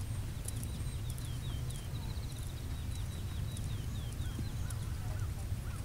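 A small bird singing a quick series of short downward-sliding high notes, then a few lower sliding notes near the end, over a steady low rumble.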